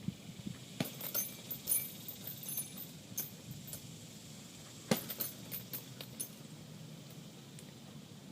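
Metal clinking and jingling in two short bursts, with a sharper knock about five seconds in: the hanging chain of a heavy bag rattling as the bag is struck and swings.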